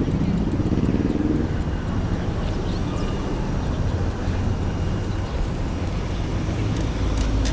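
Steady low rumble of riding noise, wind and tyres, with a low pitched hum rising slightly over the first second and a half.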